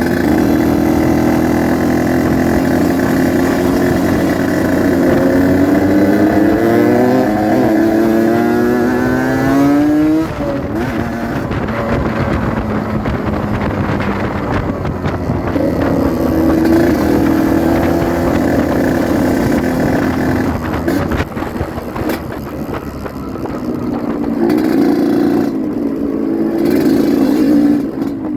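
Yamaha RX-King 135 cc two-stroke single-cylinder motorcycle engine running under way. Its pitch rises steadily for several seconds as it accelerates, drops sharply about ten seconds in, then climbs and falls again a few more times with the throttle.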